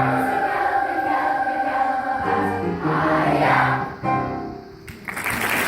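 Choir singing the final phrases of a song, the sound dying away nearly five seconds in. Applause starts just after.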